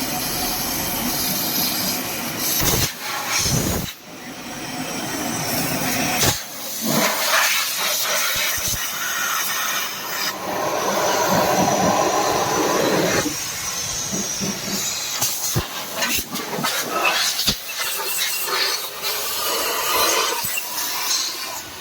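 Compressed-air blow gun blasting air through the coolant pipes and passages of a Mahindra KUV100's diesel engine, in loud hissing blasts that stop and start, to flush out coolant fouled with engine oil.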